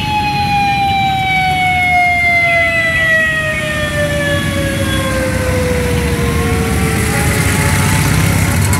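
A siren wailing in one long slow falling glide, dropping steadily in pitch for about seven seconds after a quick rise, over the low rumble of running engines. It begins to rise again right at the end.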